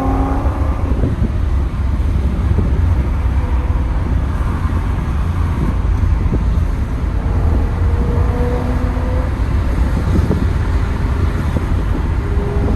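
Cabin sound of a BMW E90 M3's V8 with a custom exhaust under way: a steady low drone with road and tyre noise.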